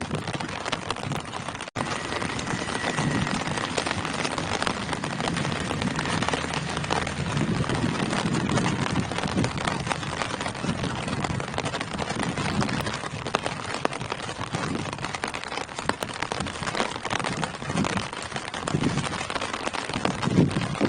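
Steady rain falling on tree foliage: an even hiss with irregular heavier, lower patches, and a momentary dropout about two seconds in.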